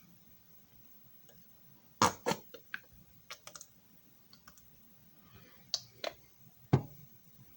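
A run of sharp, irregular clicks and knocks, about eight in all, spread over several seconds. The last one, near the end, is the loudest and has a dull thump to it.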